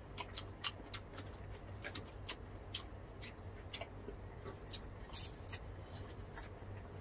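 Close-up eating sounds: chewing, crunching fried spring rolls (lumpiang shanghai) and wet mouth smacks, heard as irregular sharp clicks several times a second over a faint low hum.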